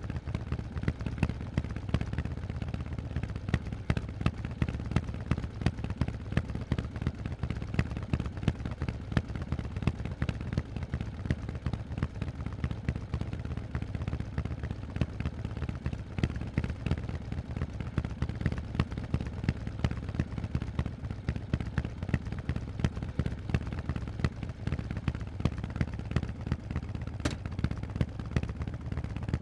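Harley-Davidson Forty-Eight's air-cooled 1200 cc V-twin running through loud Vance & Hines exhaust pipes: a steady, deep train of sharp exhaust pulses.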